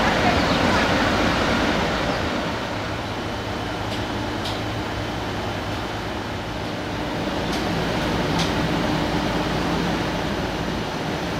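Railway train running along the track: a steady rumble with a few faint, sharp clicks.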